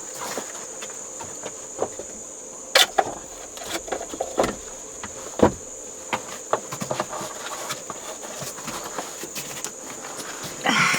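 Insects trilling steadily at one high pitch, with scattered clicks and knocks from handling, the loudest about three and five and a half seconds in.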